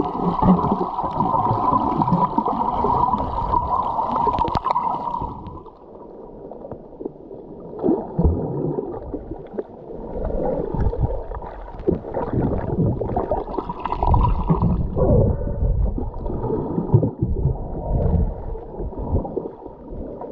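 A scuba diver breathing through the regulator, heard underwater: a long hissing inhale over the first few seconds, then, after a short lull, irregular gurgling bursts of exhaled bubbles.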